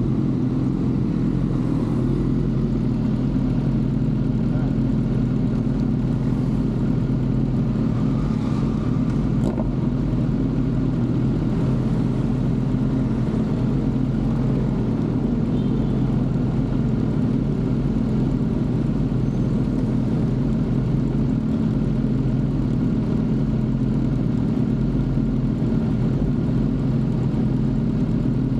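Kawasaki ZX-6R inline-four sport bike engine idling steadily at a standstill.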